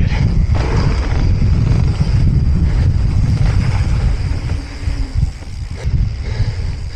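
Loud wind buffeting a small action camera's microphone during a mountain-bike ride, with tyre and trail noise and a few short knocks from the bike.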